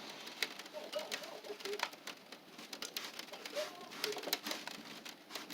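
Pigeons cooing in short repeated low calls, with several sharp clicks scattered among them; the clicks are the loudest moments.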